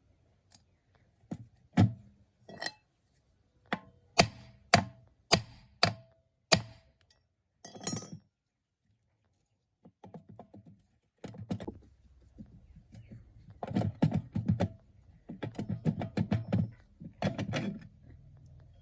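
Metal tools and engine parts knocking and clinking: a run of sharp single strikes with a short metallic ring, then quicker rattling and scraping in the second half.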